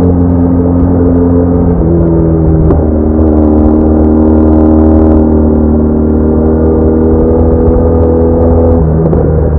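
BMW R1200R boxer-twin motorcycle engine running steadily under way, its note shifting pitch about two seconds in and again near the end.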